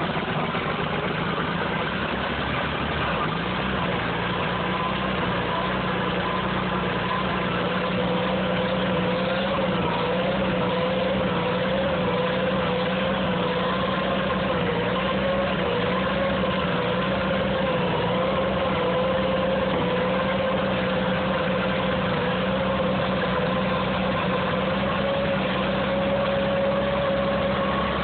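Farmall 460 tractor's six-cylinder gasoline engine idling on choke in freezing cold, just after a hard cold start from flooding. Its speed steps up about three seconds in, then holds with a slight waver.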